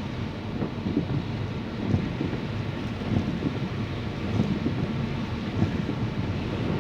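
Car driving on wet roads, heard from inside the cabin: a steady low road and engine rumble with irregular low knocks.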